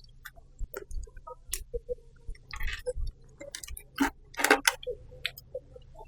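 Close-miked chewing and mouth sounds of a person eating: soft wet clicks and smacks, with a few louder bursts such as breaths or crunches.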